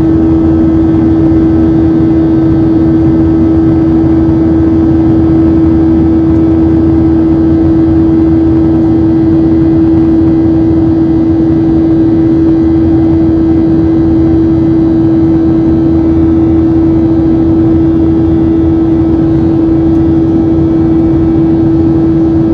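Boeing 737-700's CFM56-7B jet engines heard in the passenger cabin: a steady engine buzz, one strong unwavering hum over a dense rumble, unchanged throughout.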